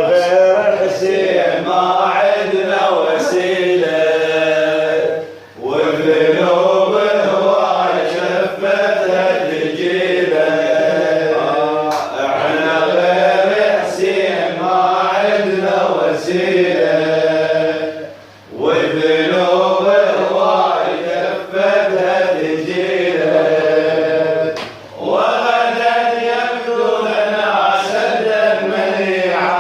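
A man's voice chanting a melodic Arabic poem-song in long, held, wavering lines, with short breaks for breath about 5, 18 and 25 seconds in.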